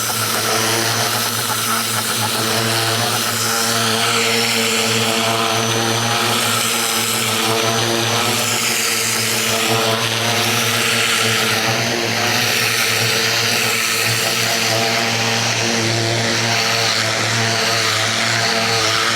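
Ryobi 2000 PSI electric pressure washer running steadily under load, its motor and pump humming under the hiss of the high-pressure water jet striking the fence, the hiss shifting as the wand moves.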